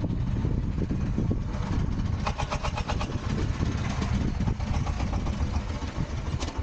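Strong wind buffeting the microphone, a loud, uneven low rumble, with a brief quick rattle about two seconds in.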